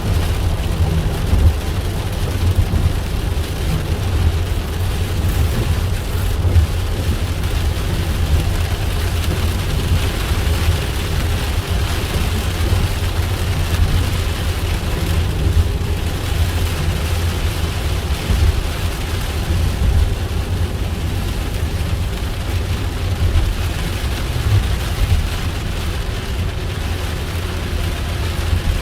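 Steady low rumble of a car driving, heard from inside the cabin, with a hiss of rain on the vehicle.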